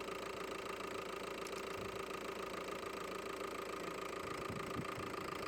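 VW Golf MK5 2.0 TDI four-cylinder diesel engine idling steadily, run to test its newly replaced alternator, with a constant whine held over the engine noise.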